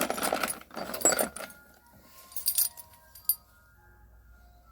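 Loose metal mower spare parts clattering and clinking as they are handled, busiest in the first second and a half, then two short, sharper clinks.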